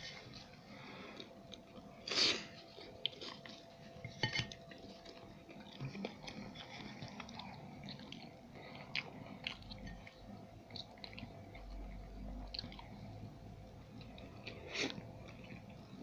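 A person chewing empanadas and canastitas, pastry turnovers, with crisp crunches scattered through the chewing; the loudest crunches come about two seconds in and again near the end.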